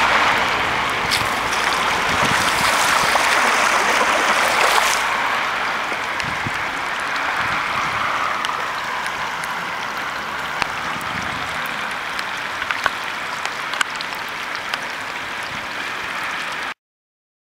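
Torrential rain pouring onto a flooded road, with water running over the tarmac, a steady rushing hiss. It is louder for the first few seconds, then settles lower, with a few sharp drop ticks later on.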